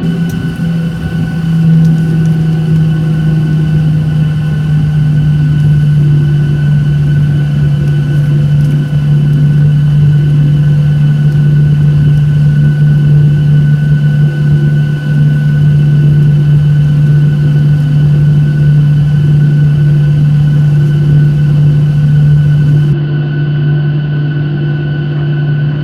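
Boeing 737-800 cabin noise: the steady low drone of its CFM56 jet engines, with a few thin steady whining tones above. It swells over the first couple of seconds and then holds level.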